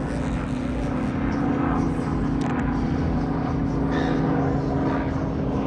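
A steady mechanical drone, like a running engine, with a constant low hum.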